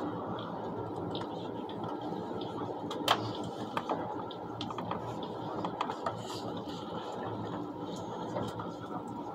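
Steady running noise inside the cabin of a moving ICE high-speed train, with scattered sharp clicks; the loudest click comes about three seconds in.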